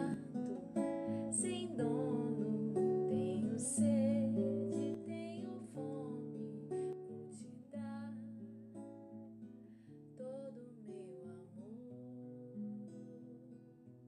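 Acoustic guitar picking and strumming chords at the end of a song, gradually getting quieter.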